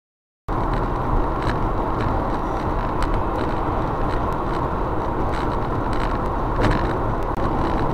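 Steady rumble of a car driving, engine and road noise, cutting in suddenly about half a second in after silence, with a few faint clicks over it.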